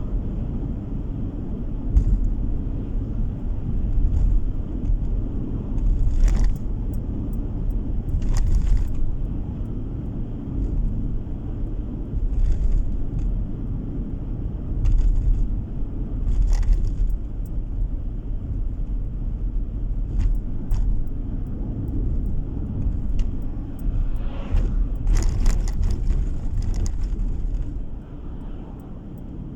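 Car driving on the road, heard from inside the cabin: a steady low rumble of road and engine noise, with short rattles every few seconds and a cluster of them near the end.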